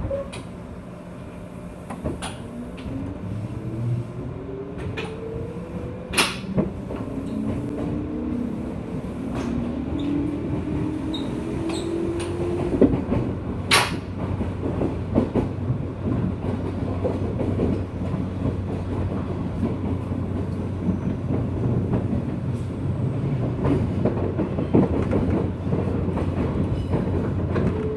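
JR West 201 series electric train heard from inside a motor car as it pulls away. The traction motors and chopper control give a rising whine in two steps over the first dozen seconds, over a steady low rumble. After that the wheels knock over rail joints, with a few sharp clicks.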